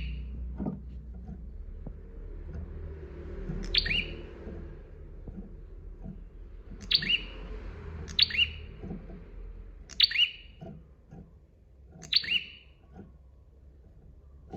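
A prenjak (prinia) giving loud, sharp call notes, each a quick two-part downward sweep, about six times with gaps of one to four seconds. A low steady hum sits underneath.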